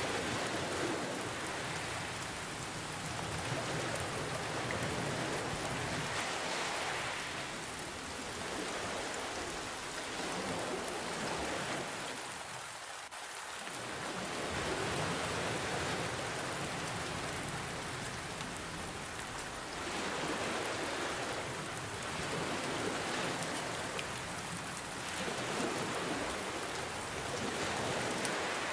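Steady rain hiss mixed with ocean waves that swell and ebb every few seconds, easing off briefly near the middle.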